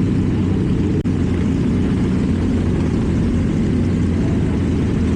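KTM Duke 790's parallel-twin engine running steadily under way, its exhaust note loud and even, with a very brief dip about a second in.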